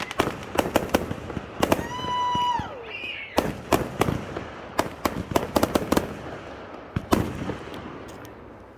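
Fireworks display: a rapid string of aerial bangs and crackles. About two seconds in, a brief whistle holds one pitch and then falls. The bursts thin out and grow fainter near the end.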